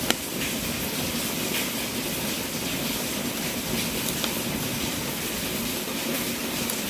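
Wood fire burning in a fireplace: a steady hiss with a few sharp crackles and pops, the loudest just after the start.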